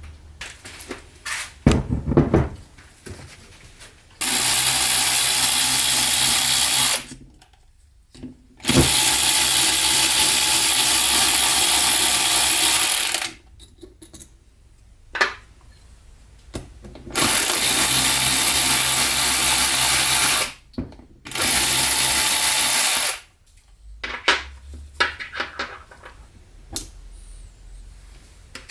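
A power tool running in four steady bursts of a few seconds each, with short pauses and small knocks of handling in between.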